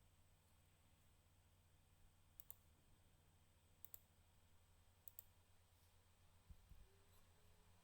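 Three faint computer mouse double-clicks, about a second and a half apart, over a steady low hum, with a soft low thump near the end.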